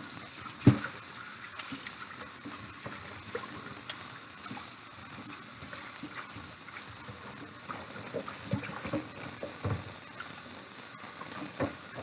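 Kitchen tap running steadily into the sink as a raw chicken is rinsed, with a sharp knock under a second in and a run of smaller knocks and handling sounds near the end.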